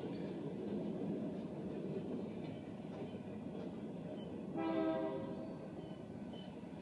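Empty coal train rolling past, a steady rumble that slowly fades, with one short locomotive horn blast a little past the middle.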